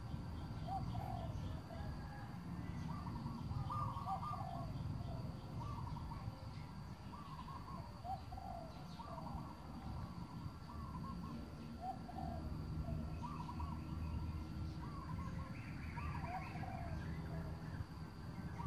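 Birds calling repeatedly, short groups of a few notes every second or two, over a low background rumble and a faint steady high-pitched tone.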